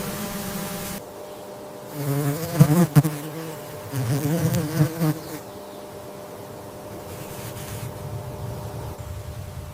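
Flying insect's wings buzzing: a steady hum that swells louder and wavers in pitch twice, about two and four seconds in, as if passing close.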